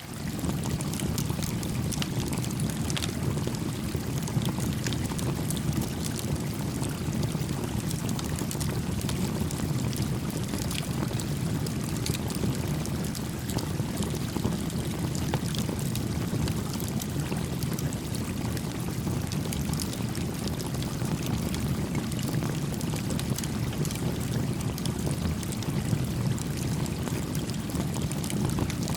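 A small stream flowing steadily, with a small wood fire crackling over it in frequent tiny pops.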